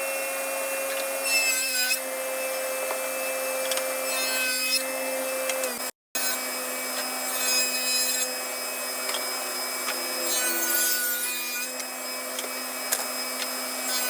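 Power saw running and cutting wood, with a steady motor hum under the noise of the cut. The sound drops out briefly about six seconds in, then carries on.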